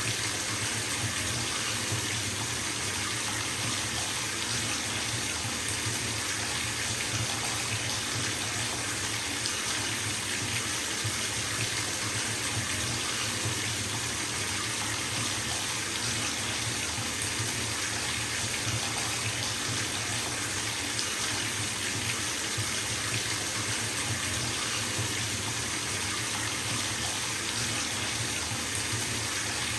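Bathtub filling from the tap: a steady, even rush of water pouring into the tub, unchanging throughout.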